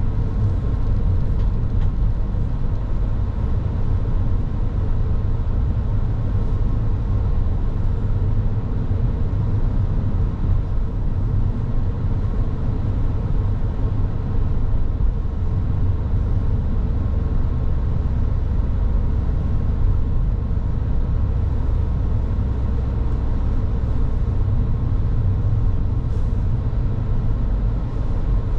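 Car driving along a road: a steady low rumble of tyre, road and engine noise, with a faint steady hum above it.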